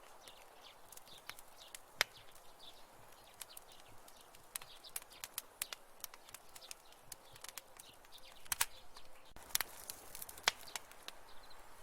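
Wood fire crackling in a fireplace: irregular sharp pops and snaps over a soft hiss, with a louder pop about two seconds in and bunches of pops near the end.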